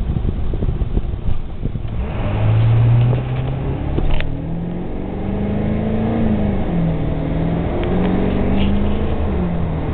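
Ford 7.3 Powerstroke turbo-diesel V8 launching at full throttle about two seconds in and accelerating hard. Its pitch climbs, falls back at an upshift, and climbs again before a second upshift near the end.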